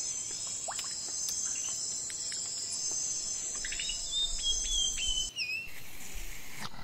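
Insects trilling steadily at a high pitch, with a few short whistled bird calls and a falling whistle in the second half; the insect sound cuts off suddenly about five seconds in, leaving a quieter background.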